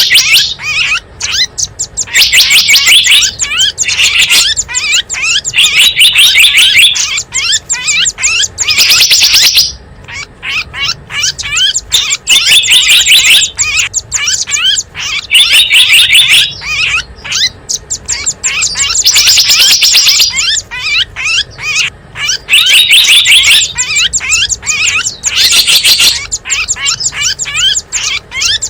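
Bird-lure recording of small wild birds calling: loud, rapid, high chirps and fast trills in dense bursts of a second or two, almost without pause.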